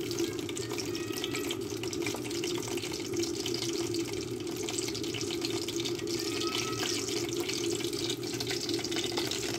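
Tuna fish kebabs sizzling and crackling in hot oil in a frying pan as they are laid in, with a steady hum beneath.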